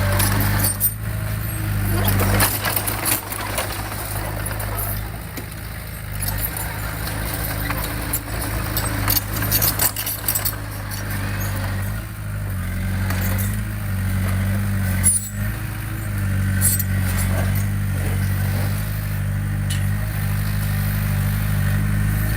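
Heavy earthmoving machine's diesel engine running steadily, with scattered metallic clanks and knocks.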